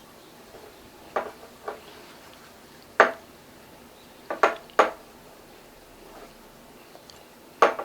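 Sharp clinks of something hard tapping against a dish, about seven in uneven groups, the loudest about three seconds in and near the end.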